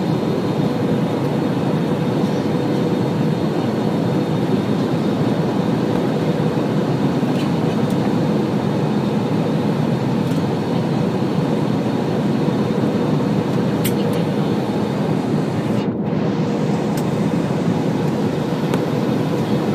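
Steady cabin noise of an Airbus A320-200 airliner, a constant rushing drone of engines and airflow heard from inside the cabin, with a faint steady hum under it and a few faint ticks.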